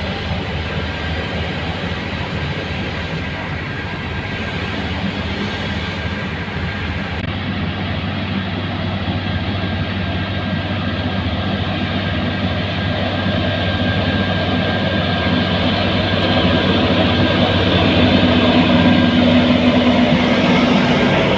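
Heavy engine-driven machinery running steadily, a constant low engine drone under a wide rushing noise that slowly grows louder toward the end.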